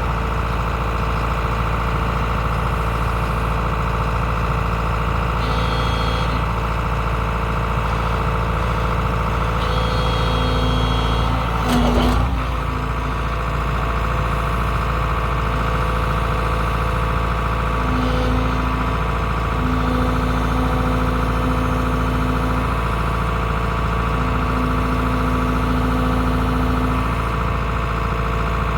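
Excavator's diesel engine running steadily, with a whine that comes and goes several times as the hydraulics work. There is a single knock about twelve seconds in.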